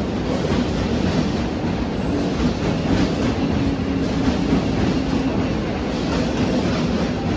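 Mumbai suburban local train (EMU) running along the platform: a steady rumble of wheels on rail with a clatter of wheels over the track, and a low hum in the middle.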